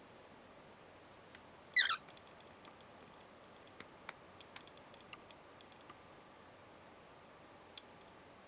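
Cockatiel giving one short chirp that falls in pitch, about two seconds in, followed by a scatter of light ticks and clicks.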